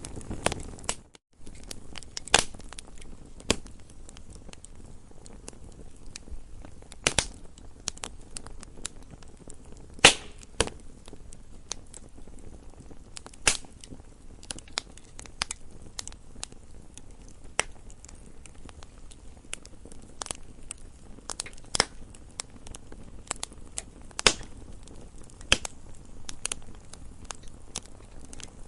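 Campfire crackling: irregular sharp pops and snaps of burning wood over a low steady rush of flame, one especially loud pop about ten seconds in. The sound briefly drops out about a second in.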